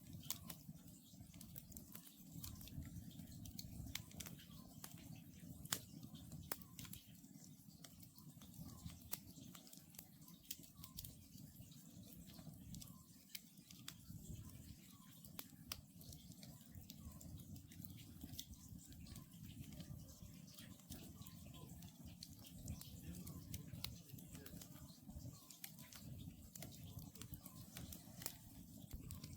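Wood campfire crackling softly, with scattered sharp pops from the burning logs over a low steady rustle. Faint, short calls of a distant Oriental scops owl repeat again and again under the fire.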